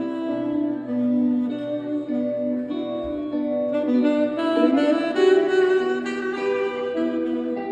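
Live band playing an instrumental passage: a lead melody line moves from note to note over the band, with a rising run of notes about halfway through.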